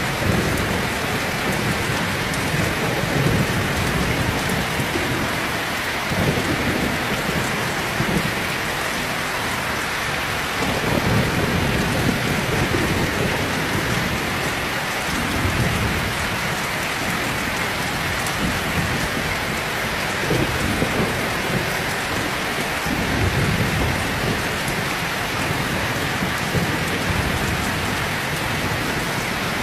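Heavy rain pouring steadily, with low thunder rumbling that swells and fades several times underneath it.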